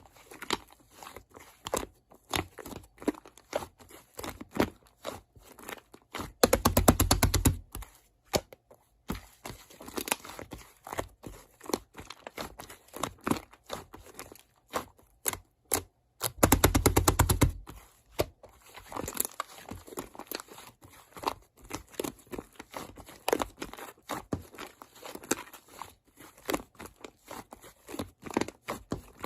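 Clicks and scrapes of utensils while gyeranjjim (Korean steamed egg) is being made. Two bursts of fast, even clicking come about six and sixteen seconds in.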